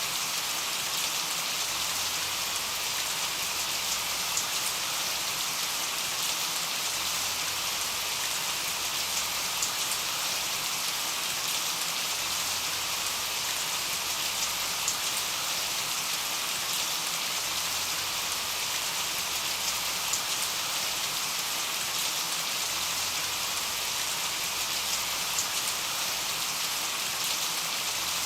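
Steady rain: a dense, even hiss of falling rain with scattered sharper drop ticks, unchanging throughout.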